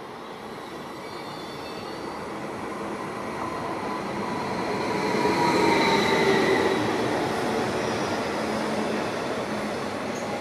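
Meridian electric multiple unit (Stadler FLIRT) running past close along the platform, growing louder to a peak about halfway through and then easing off. Its running noise carries a faint whine that drops in pitch as it passes.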